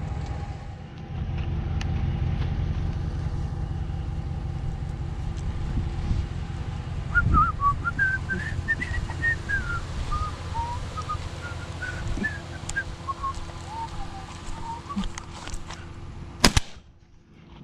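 A low, steady rumble, with a wavering whistled tune running for several seconds in the middle. A single loud gunshot cracks near the end.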